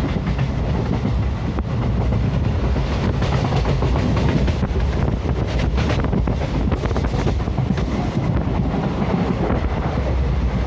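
DEMU diesel-electric multiple-unit passenger train passing at speed, its wheels clattering over the rail joints in a rapid run of clicks over a steady rumble.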